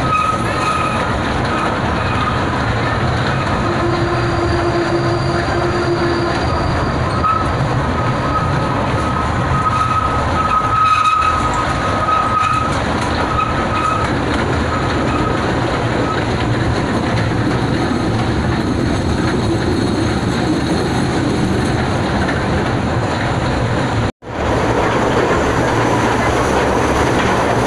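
Kurobe Gorge Railway narrow-gauge open passenger car running along the track, with a steady rumble and clatter of wheels on rails. A high thin wheel squeal comes and goes through the first half. After a brief break just past the three-quarter mark, the running noise carries on inside a tunnel.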